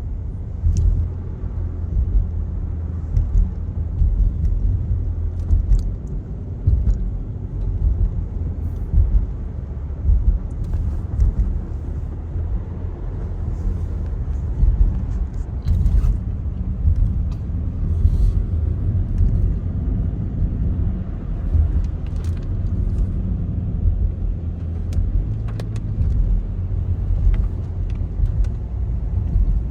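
Car driving on a snowy road: a steady low road rumble, with a few faint scattered clicks.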